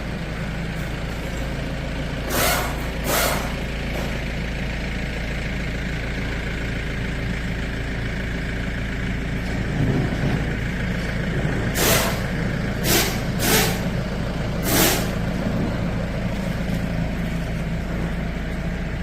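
Kia Sportage D4EA 2.0-litre common-rail diesel engine running steadily, with six short hisses: two early on and four about 12 to 15 seconds in.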